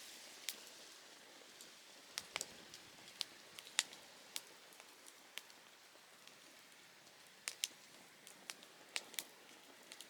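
Softwood campfire crackling: irregular sharp pops and snaps, some in quick pairs, over a faint steady hiss of burning.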